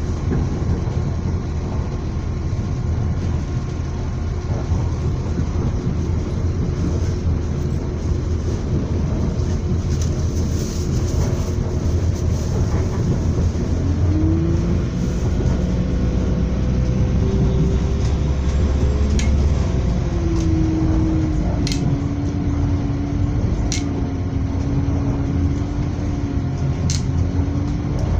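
Running noise heard from inside a moving train: a steady rumble, with a humming tone that rises about halfway through and then holds with a slight waver, and a few sharp clicks near the end.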